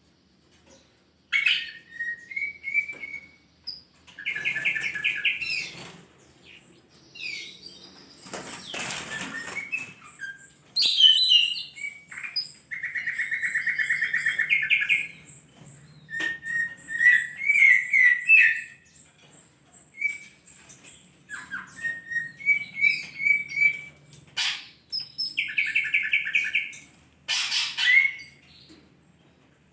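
Cucak ijo (green leafbird) singing: a varied run of chirps and whistles with rapid buzzy trills, in phrases broken by short pauses. A couple of short noisy bursts come between the phrases.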